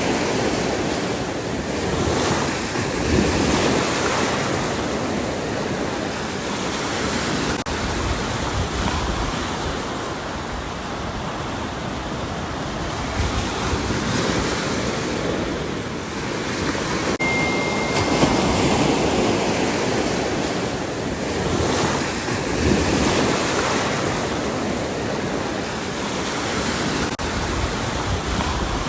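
Ocean waves breaking and washing up a shore, the surf swelling and easing every few seconds.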